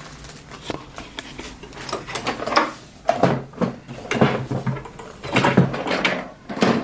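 Clicks and knocks of the needle plate of a Janome Memory Craft 6700P sewing machine being handled and pressed back into its seat. Sparse at first, then a quick run of knocks from about halfway through.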